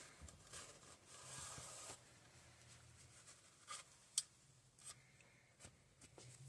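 Faint scraping and rubbing on a small engine's crankcase side cover as it is worked free while saving its gasket, followed by a few light metallic clicks about halfway through.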